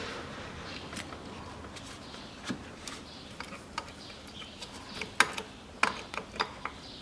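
Scattered light metallic clicks and taps of a fuel pipe and its fittings being handled and fitted on the engine by hand, with a run of clicks about five to six and a half seconds in.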